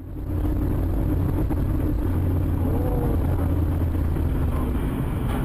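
Steady engine and road noise of a moving car, a constant low hum under a wash of tyre noise, starting abruptly.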